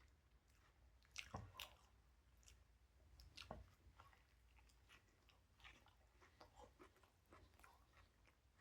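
Faint chewing of a turkey-and-ham sub sandwich: irregular soft wet mouth clicks and smacks, the most noticeable about a second in and around three and a half seconds.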